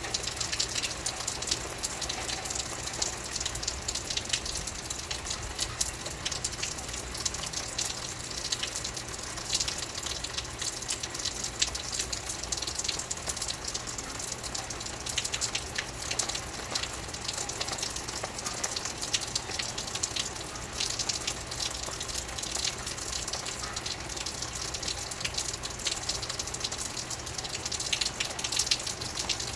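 Steady rain falling, a continuous hiss with a dense patter of individual drops striking a surface.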